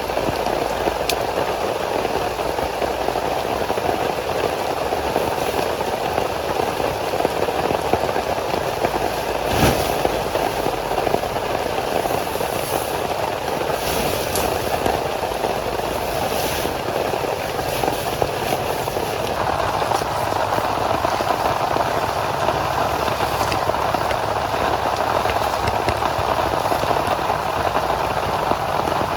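Heavy rain falling steadily, with scattered sharp taps of larger drops. The rain turns a little brighter and harder about two-thirds of the way through.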